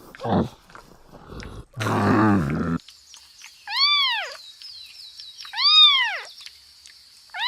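Animal calls: a low call in the first few seconds, then three high calls about two seconds apart, each rising and falling in pitch over about half a second.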